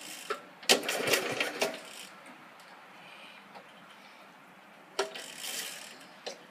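A vehicle's starter cranking the engine in two short bursts, about a second in and again near five seconds, on a cold start after a day in the rain, without the engine catching.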